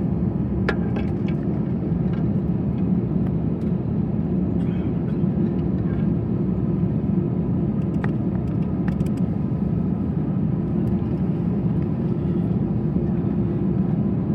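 Steady low rumble inside the cabin of an Airbus A321 on the ground, with the engines running at low power, a faint steady whine, and scattered light clicks and rattles.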